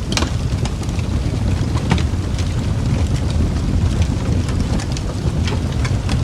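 Wood fire crackling, with irregular sharp pops and snaps over a steady low roar of the flames.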